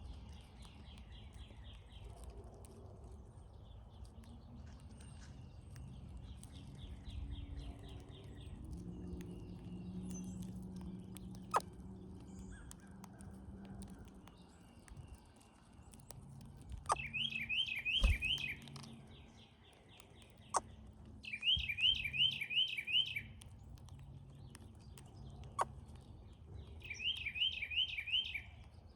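Brown-headed cowbirds calling: bursts of quick, evenly repeated high notes, loudest in three bursts over the second half, with a few sharp clicks between.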